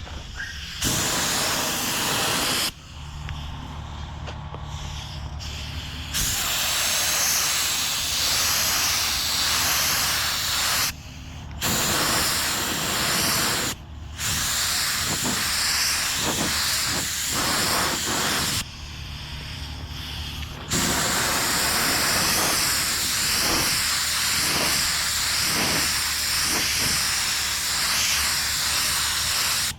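Primer being sprayed onto a car body: a loud hiss in repeated passes, the longest about nine seconds, each stopping suddenly, with a steady low hum in the pauses.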